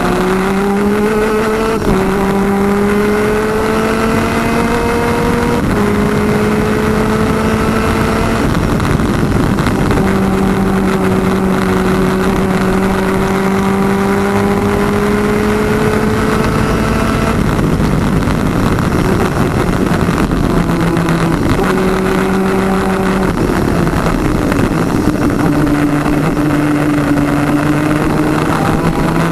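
Twin-cylinder 250cc two-stroke superkart engine at racing speed, its pitch climbing through each gear with sharp up-shifts about 2, 6 and 8 seconds in. A long pull follows, then several quick drops in pitch from about 17 seconds on as it shifts down, before it climbs again near the end.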